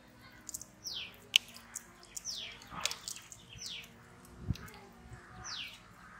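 A bird repeats a short, high call that slides down in pitch, four times about a second and a half apart. Under it are scattered soft clicks and a dull thump about four and a half seconds in, from hands working the marinade into the chickens in a metal pot.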